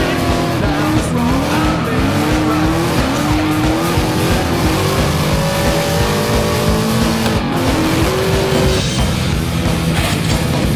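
Engines revving up and down with tyres squealing under hard drifting, over background music.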